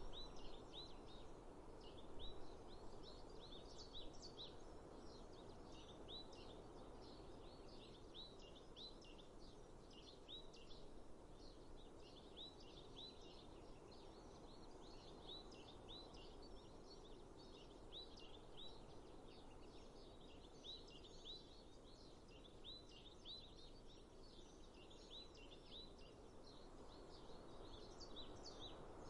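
Faint outdoor ambience of small birds chirping continuously in quick, repeated short notes over a low, even rushing background.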